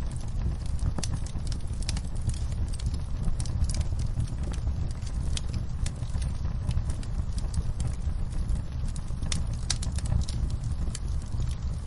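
Campfire burning, with a steady low rumble and irregular sharp crackles and pops from the wood.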